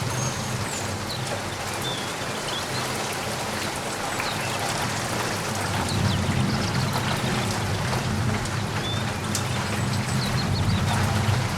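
Steady rain falling and pattering on surfaces, with a few short, faint high chirps. A low rumble underneath grows louder about halfway through.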